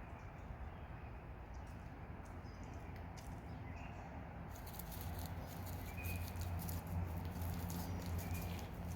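Light pattering steps and a few short, faint bird chirps, over a low rumble that grows louder about halfway through.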